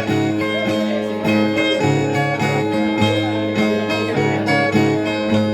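Viola de dez cordas (Brazilian ten-string viola) playing the instrumental interlude between sung stanzas of a cantoria. Picked melody notes sound over a steady low drone of ringing bass strings.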